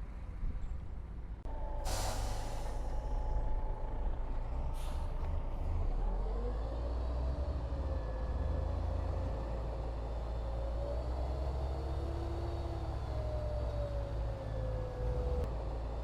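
Heavy diesel earthmoving machinery running, with a whine that slides up and down in pitch. A sharp hiss of released air comes about two seconds in, and a shorter one near five seconds.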